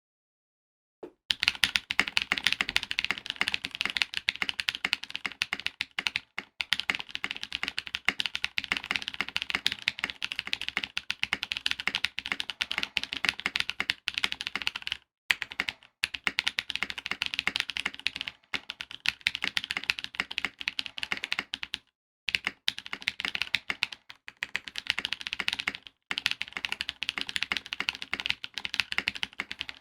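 Continuous fast typing on a mechanical keyboard with Corsa tactile switches (nylon housings, POM long-pole stems, 60 g springs) in a polycarbonate case with an FR4 plate and plate foam, under PBT keycaps. It starts about a second in, with a few short pauses along the way.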